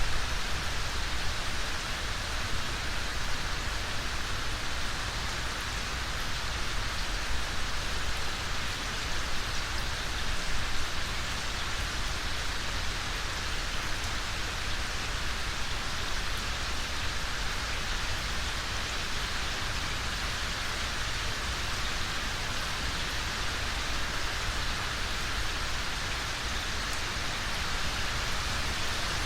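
Steady rain falling on a surface: a dense, even patter with a low rumble underneath.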